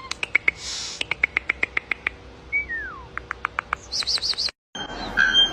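Bird calls: a rapid run of sharp clicking notes, about eight a second, with one short downward-sliding whistle among them and a brief high trill. The sound cuts off suddenly about four and a half seconds in and switches to a different bird's repeated calls.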